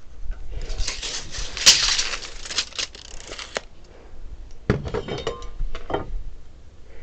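Handling noise: about three seconds of scraping and rustling with one sharp click, then a quick run of sharp metallic clinks with a short ring, as of hand tools or hardware being picked up and set down.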